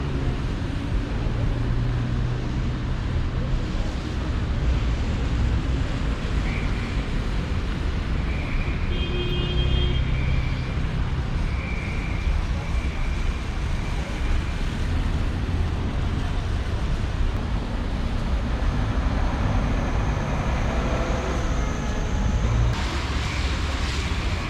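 City street traffic: a steady rumble and wash of passing vehicles, with a few short high-pitched tones near the middle.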